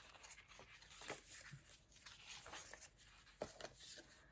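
Faint rustling and a few soft taps of paper pages being turned and handled in a handmade journal, close to near silence.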